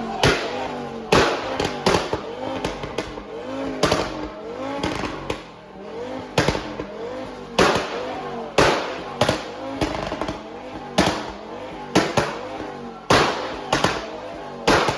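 Car engine revving up and down over and over, with many loud sharp bangs going off irregularly, about one or two a second.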